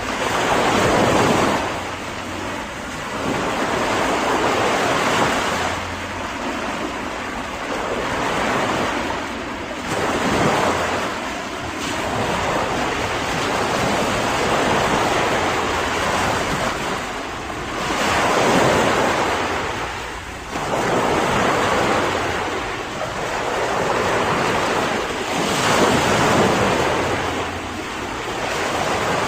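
Sea waves breaking and washing in, a continuous rush of surf that swells and falls back every few seconds.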